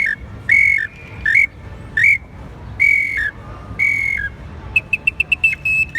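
Handmade clay bird whistle blown in six short notes, each held steady and then dropping in pitch at its end. Near the end it breaks into a fast run of short chirping notes, a little higher.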